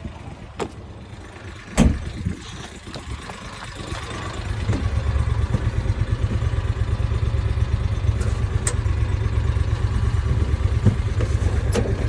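A vehicle engine running steadily at idle, its low rumble coming in about four seconds in, after a single knock near two seconds.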